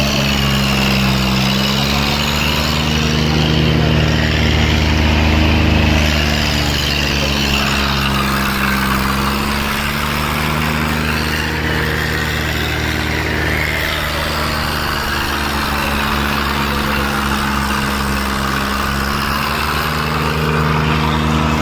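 Tractor diesel engine running steadily, its pitch slowly sagging and rising again several times.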